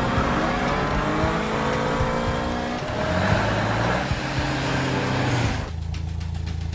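Cartoon racing-car engine sound effects, running and revving, with pitches gliding up and down. About five and a half seconds in, the sound cuts abruptly to a steady low engine hum with even ticking.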